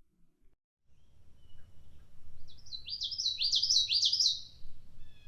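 Male common yellowthroat singing one song of quickly repeated "witchety" phrases over about two seconds, with a faint background hiss.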